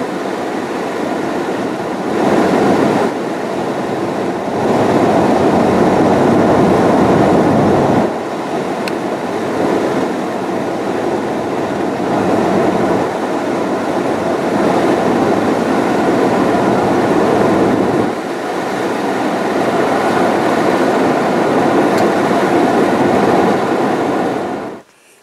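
Steady road rumble of a pickup truck driving, tyre and engine noise heard from inside the cab, growing louder and easing off a few times and cutting off abruptly near the end.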